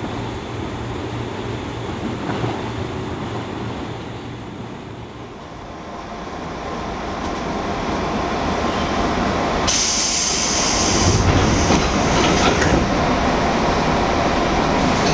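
JR 205 series electric train pulling away and gathering speed, heard from inside the car, its running noise growing steadily louder. Wheels squeal briefly about ten seconds in.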